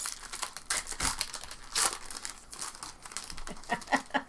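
Trading-card pack wrappers crinkling and tearing as packs are ripped open, in quick irregular crackles.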